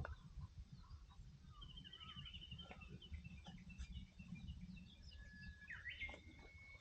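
Birds chirping and calling faintly, with a rapid trill about two seconds in and a long whistled note near the end, over a low rumble.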